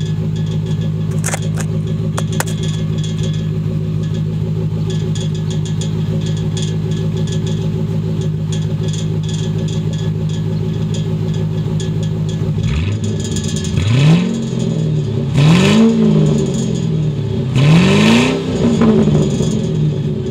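1996 Ford Thunderbird LX's 4.6-litre V8 idling steadily through its exhaust. Then the throttle is blipped three times, each rev rising and falling back, before it settles again to idle.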